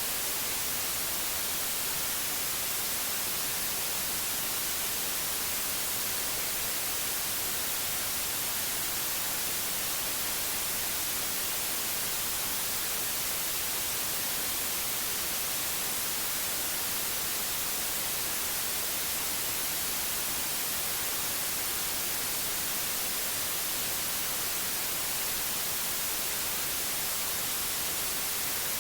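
Steady white noise: an even hiss, brightest at the top, that never changes.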